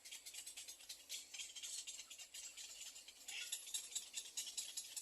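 Little egret chicks giving rapid, high-pitched ticking begging calls, growing louder a little over three seconds in.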